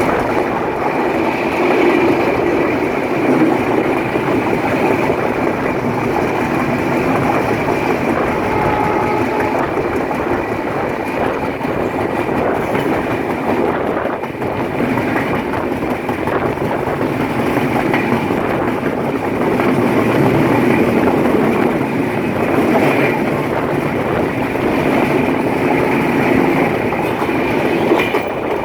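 Train running past on the rails, its wheels and carriages making a loud, steady rumble and clatter without a break.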